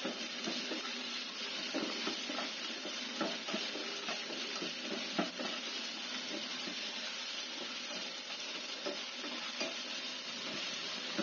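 Minced garlic and ginger sizzling steadily in hot oil in a non-stick frying pan, while a black plastic slotted spatula stirs them with irregular scrapes and light taps against the pan.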